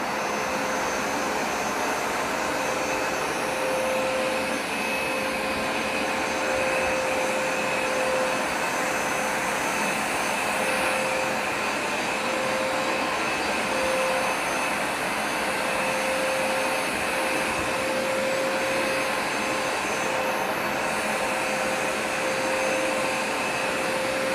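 Hoover Smartwash Pet carpet cleaner running steadily, its motor giving a continuous whine over a rush of suction noise.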